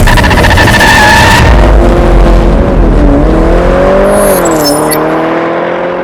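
A motor vehicle engine, loud and rough at first, then a steady engine note that dips and rises in pitch before fading out at the end.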